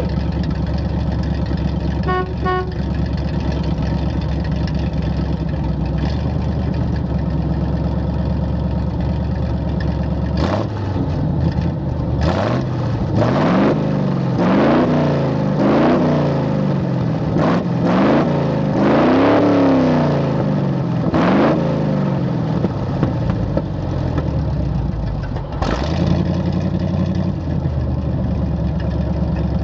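1968 Chevrolet C-60 truck's 327 V8 with a glasspack muffler idling steadily, then revved in a string of about six or seven quick blips of the throttle before dropping back to idle.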